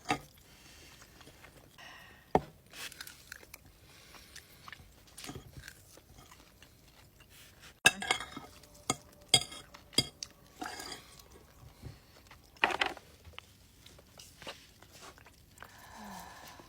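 Eating sounds at a steak dinner: chewing, with cutlery knocking and clinking on plates now and then, the loudest clinks about eight, nine and thirteen seconds in.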